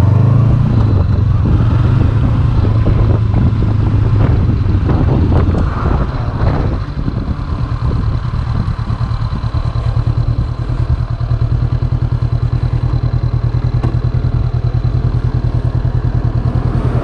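Honda CB500X parallel-twin motorcycle engine running at low speed, then settling to a steady idle about six seconds in.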